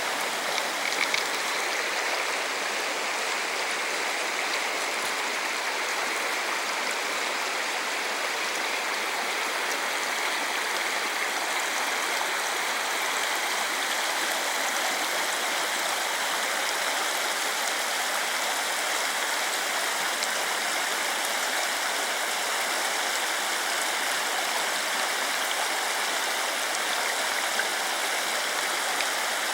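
Rushing water of a mountain stream at a waterfall, a steady, even hiss with little low rumble.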